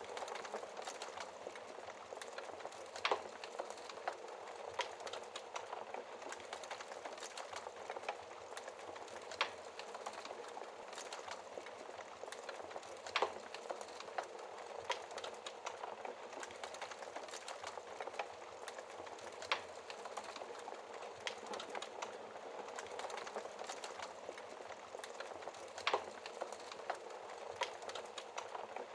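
Wood fire burning in a fireplace: a steady hiss with frequent crackles and sharp pops, a few louder pops scattered through.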